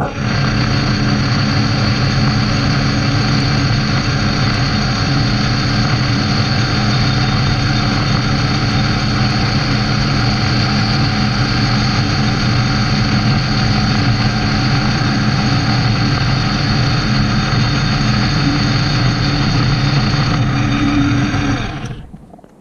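Metal lathe running under power, a steady machine drone with a whine, for about twenty seconds, then winding down near the end.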